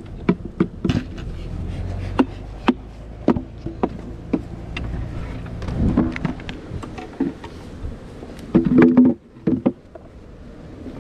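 Irregular sharp knocks and clicks of wooden beehive equipment being handled, with a louder cluster of knocks near the end.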